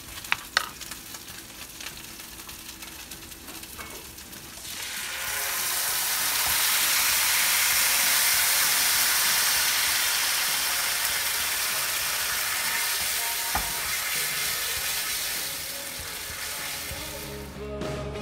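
Salmon pieces sizzling loudly in hot oil in a frying pan. The sizzle starts about five seconds in and slowly eases off near the end. Before it, a few light clicks of a spoon against a metal ring mould.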